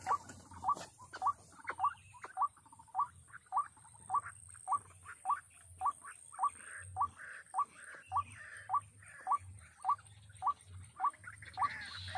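White-breasted waterhen (ruak-ruak) calling: a short rising note repeated evenly, just under two a second.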